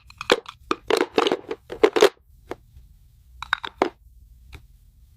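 Small plastic toy pieces clicking and tapping against each other in quick succession, then a few more clicks about three and a half seconds in, over a faint low hum.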